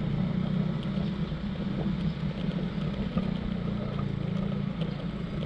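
A small engine running steadily, a low pulsing hum.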